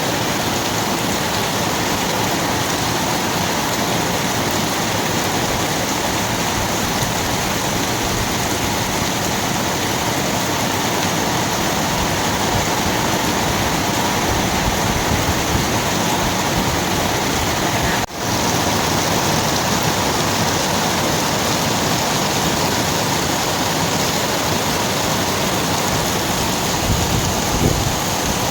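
Steady rain falling, a dense even hiss with no letup, broken only by a momentary dropout about two-thirds of the way through.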